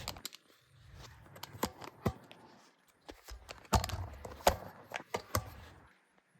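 Scattered sharp clicks and light knocks of hands and tools handling metal mower-deck parts, half a dozen of them spread irregularly, over a low rumble.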